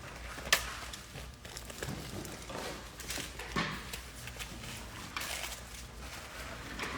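Rustling and light knocks of things being handled, with a sharp click about half a second in.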